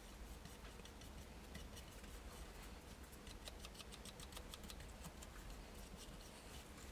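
Faint, quick light clicks and taps, thickest from about two to six seconds in, over a low steady room hum.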